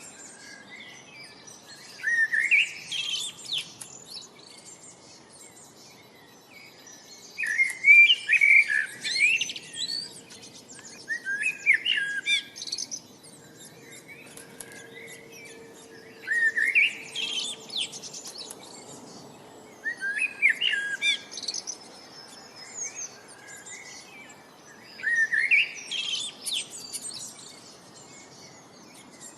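Bird song: short phrases of quick, mostly rising chirps and trills repeated every few seconds, over a faint steady background hiss.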